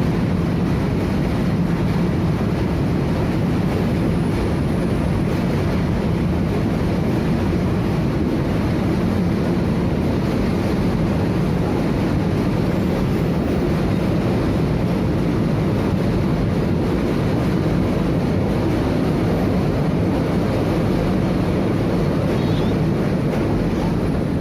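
Freight train wagons rolling past close by: a loud, steady rumble of steel wheels on the rails.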